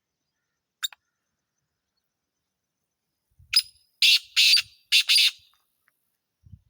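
Black francolin calling: a loud, harsh series of about five high notes over roughly two seconds, in the second half. A single brief click comes about a second in.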